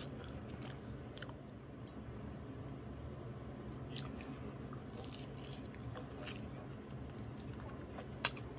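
A person chewing grilled pig's feet (jokbal) close to the microphone, with small wet mouth clicks over a steady low hum. There is one sharper click near the end.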